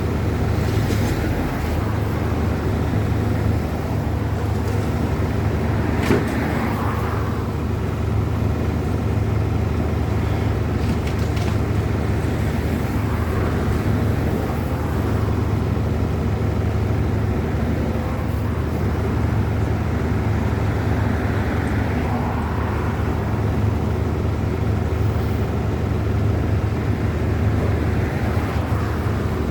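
Steady low engine rumble with a single sharp knock about six seconds in.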